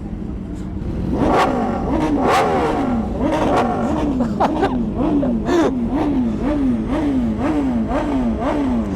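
An engine revved over and over: two larger revs early on, then a fast string of short throttle blips, about two a second, each rising and falling in pitch.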